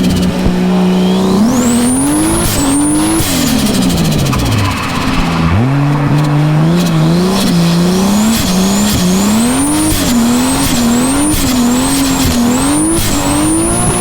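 Toyota JZS161's 2JZ straight-six engine under throttle: held at steady revs, it climbs, then drops away through a lift about three seconds in. From about six seconds it pulls up again and the revs rise and dip repeatedly, about one and a half times a second, as the throttle is worked, with a high whistle rising and falling along with the revs.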